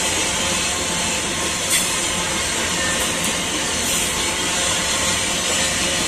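Steel wheels of a long freight train of open gondola wagons rolling past on the rails, a steady rolling noise with one sharp click about two seconds in.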